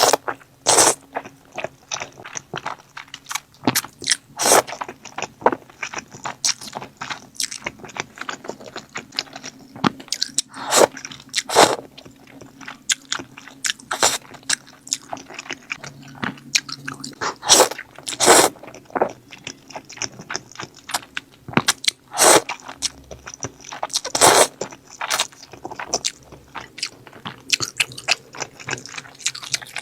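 A person eating close to the microphone: a steady run of sharp, crunchy bites at irregular intervals, with chewing between them, from a meal of grilled sausage and sticky fire noodles.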